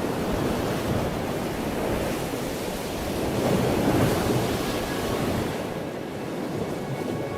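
Audio played backwards: a steady wash of noise like surf or wind, swelling a little about halfway through, with faint musical tones starting to show near the end.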